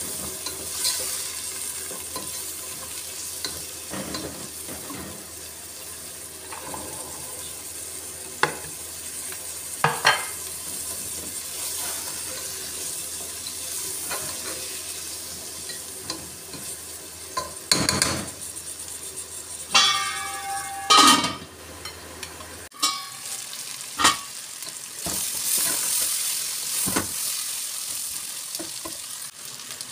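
Onions, tomatoes, green chillies and spices sizzling in hot oil in a pot, stirred with a plastic slotted spatula that knocks and scrapes against the pot. Boiled chickpeas are stirred into the frying masala, with a few louder clattering scrapes near the middle.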